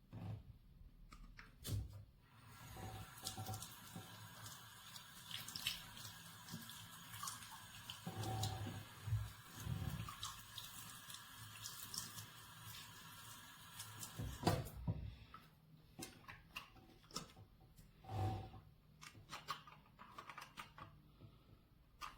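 Water running and splashing, with scattered knocks and clicks of handling; the running water stops about fourteen seconds in.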